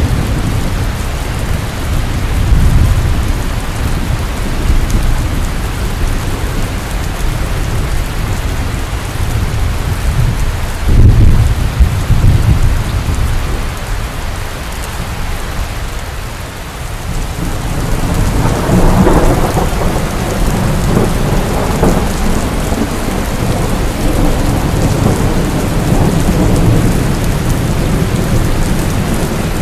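Heavy rain falling steadily, with rolling thunder rumbling underneath. The deepest thunder swells about a third of the way in, and a longer peal rolls from a little past halfway.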